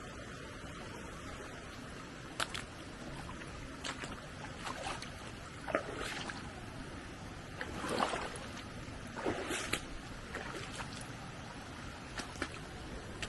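Steady rush of flowing stream water, with scattered knocks and a few short swishes of handling or movement from a couple of seconds in, the loudest around the middle.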